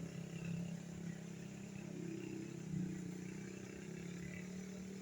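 A motor vehicle's engine running steadily at a low pitch, with a brief louder moment a little under three seconds in.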